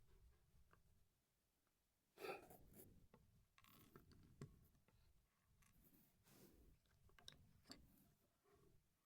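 Faint clicks and rustling of plastic LEGO pieces being handled and pressed together, loudest about two seconds in.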